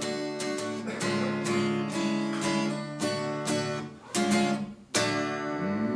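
Acoustic guitar strumming chords in a steady rhythm, the instrumental close of a song after the last sung line.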